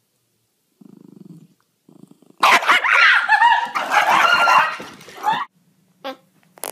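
A dog vocalizing loudly for about three seconds in a run of pitched, wavering barks and yips, followed by two short sounds near the end. A brief low buzzy sound comes about a second in.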